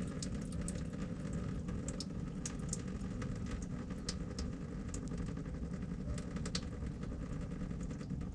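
Engine oil draining from the oil filter mount into a drain pan, dripping with many small irregular ticks, over a steady low rumble.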